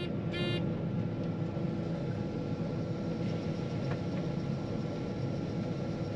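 John Deere 9500 combine running steadily while harvesting corn, heard from inside the cab as an even engine and machinery hum. A short high-pitched tone sounds in the first half second.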